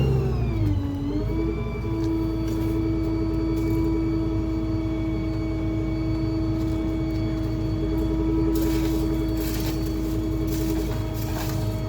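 Small rear-load garbage truck's engine running at a steady speed; its pitch dips briefly about a second in, then settles and holds. Some clattering comes in during the last few seconds.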